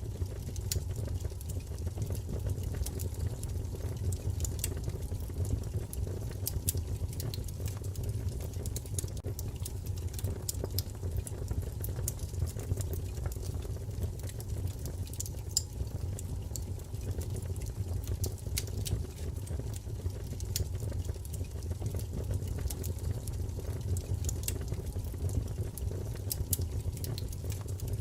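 Wood fire crackling in a fireplace: a steady low rumble of flames with frequent small, irregular pops and snaps.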